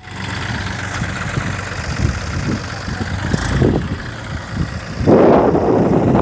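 A vehicle engine running, with a much louder, noisier rush coming in suddenly about five seconds in.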